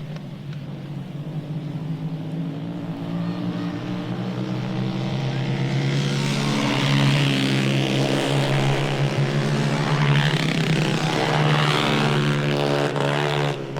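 A recorded engine sound effect: an engine running with a steady low hum that grows louder over the first half, then holds, its pitch bending slightly near the end.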